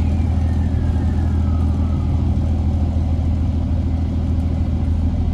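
Onboard a 2008 Orion VII NG hybrid bus, with its Cummins ISB diesel and BAE HybriDrive system, while riding: a steady low drivetrain drone and road noise. Over the first two seconds a thin whine falls in pitch and fades.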